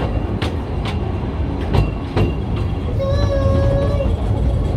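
Small tourist train running on its rails, heard from the carriage: a steady low rumble with scattered sharp clicks. About three seconds in, a steady held tone sounds for about a second.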